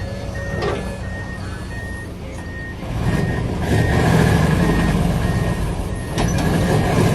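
Reversing alarm beeping at a steady pace, about one and a half beeps a second, over the diesel engine of a Hino 15-ton dump truck backing up. The engine gets louder about three seconds in.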